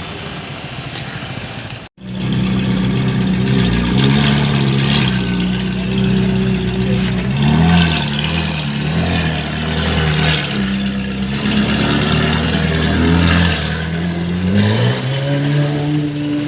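A car engine revving and accelerating, its pitch rising and falling several times. The sound cuts out abruptly about two seconds in, then comes back loud.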